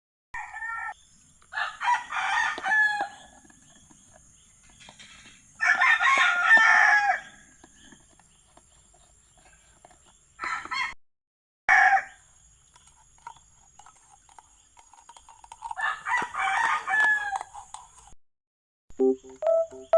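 Rooster crowing three times, about two, six and sixteen seconds in, each crow lasting a second or two.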